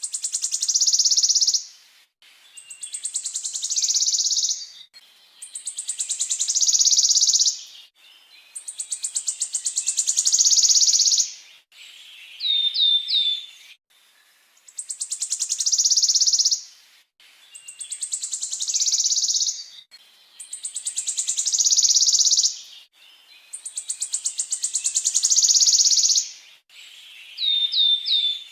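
A songbird's rapid rolling trill, each phrase growing louder for about two seconds and then breaking off, repeated over and over at even spacing. Twice a quick run of three short whistled notes comes between phrases.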